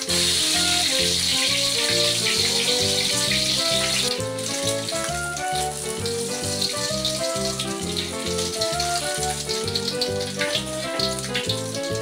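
Egg frying in hot oil in a steel wok, sizzling loudest for the first four seconds and then fading, under background music with a steady beat.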